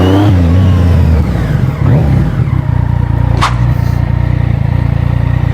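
Yamaha MT-09's inline three-cylinder engine: a rev that falls away just after the start, then running at a steady idle with an even pulsing beat. A brief sharp sound comes about three and a half seconds in.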